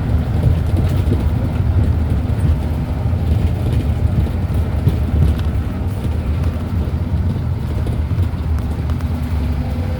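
Steady low engine and road rumble from inside a moving vehicle's cab.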